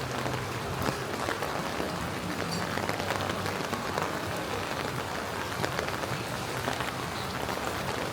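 Steady rain falling on pavement and hard city surfaces, with many small sharp drop ticks through a continuous hiss and a faint low hum underneath.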